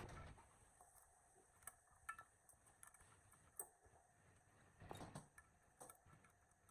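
Faint, scattered light clicks and taps, one sharper click at the very start, against near silence.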